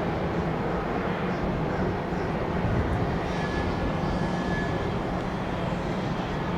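Jet airliner engines running steadily, a continuous rushing noise with a faint high whine for a moment in the middle.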